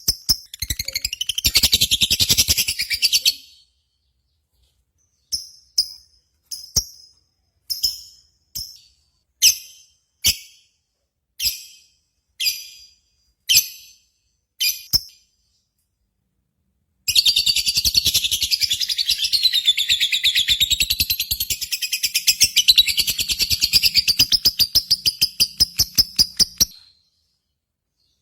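Lovebird singing: a short rapid chattering trill, then about ten sharp single chirps roughly a second apart, then a long unbroken high trill of about ten seconds.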